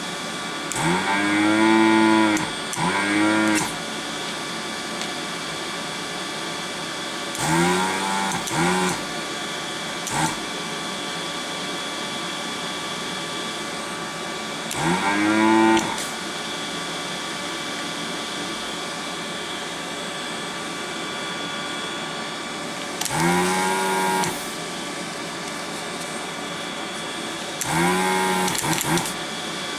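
Vacuum pump of a Pro'sKit SS-331 desoldering gun, switched on about seven times for roughly a second each, with a tone that rises then falls in pitch and a hiss of air being sucked through the nozzle. The station hums steadily between pulls.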